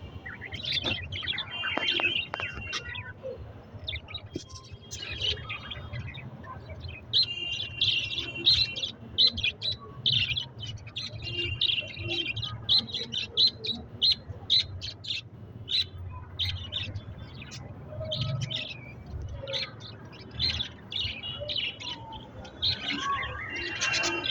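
Budgerigars chirping and warbling in a group, a near-continuous run of short high chirps.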